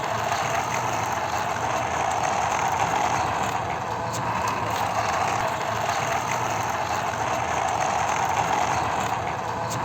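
A toy vehicle's small mechanism running with a steady, even rattling whir of plastic gears.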